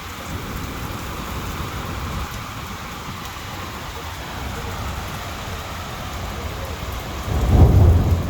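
Heavy rain falling steadily, with a loud low rumble of thunder starting about seven seconds in.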